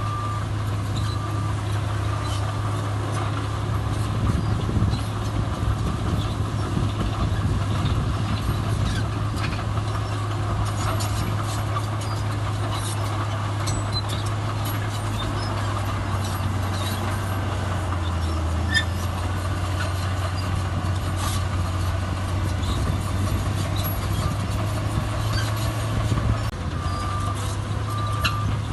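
Heavy diesel earthmoving machinery running steadily. A reversing alarm beeps at the start, stops about a second in, and starts again near the end, with scattered metallic clanks in between.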